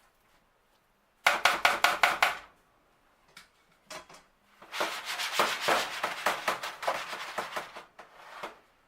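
Utensil and pan clatter: a quick run of about seven sharp taps, then several seconds of dense clattering and scraping against the pan.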